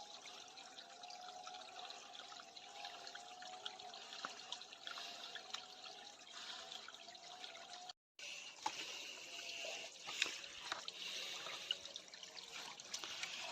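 Faint trickling water of a small stream, an even hiss with a wavering tone through the first half. The sound cuts out for a moment about eight seconds in, and a few light clicks follow.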